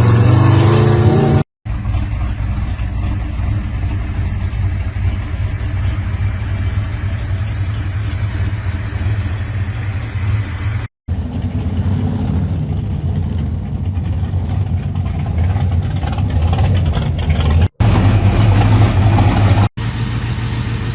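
Muscle car engines rumbling loudly and revving as the cars cruise, in several clips cut together, with four abrupt drop-outs where one clip changes to the next.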